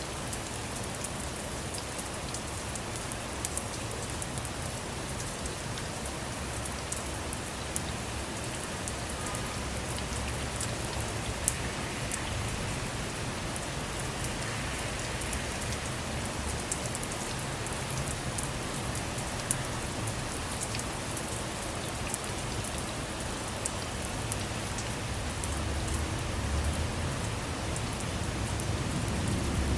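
Steady rain falling on a car, a constant patter with frequent sharp individual drop hits. A low rumble builds near the end.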